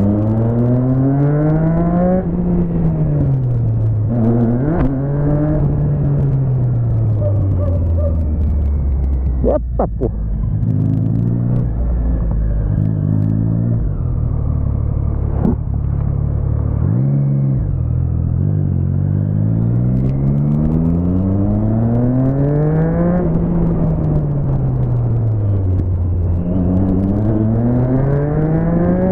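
Motorcycle engine under way, accelerating and easing off in turn, its pitch climbing and falling several times. There is a brief clatter of sharp clicks about ten seconds in.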